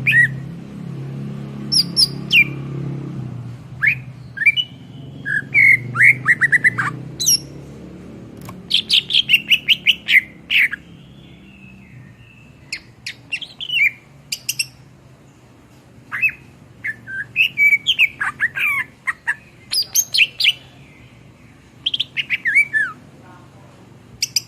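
Cucak ijo (greater green leafbird) singing a varied song of rapid chirps, trills and short whistles, delivered in bursts with brief pauses between phrases.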